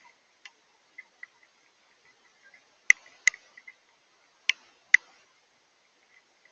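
Water drops falling at irregular intervals and landing with sharp ticks, a few faint ones early and four louder ones in the middle, with near silence between them.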